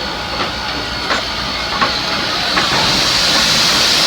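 Clover Valley Lumber #4 steam locomotive hissing steam, with a few sharp clicks. The hiss swells over the last second or so.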